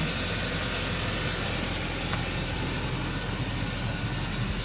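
2016 Kia Sportage engine idling steadily, still warming up after a cold start.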